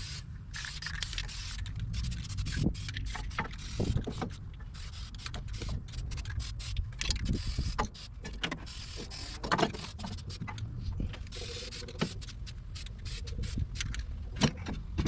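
Aerosol spray can hissing on and off in short passes, amid scattered knocks, clicks and scrapes of handling and moving around in a car's engine bay or underside.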